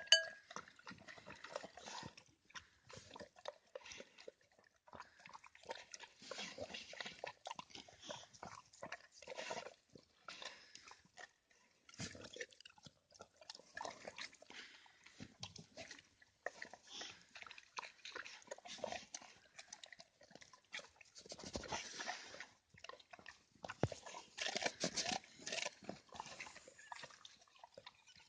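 Dog eating food, with irregular chewing and biting sounds in quick, uneven runs and brief pauses.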